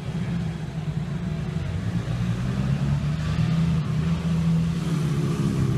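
Pit bike engines running in a steady drone, with a slight rise in pitch near the end.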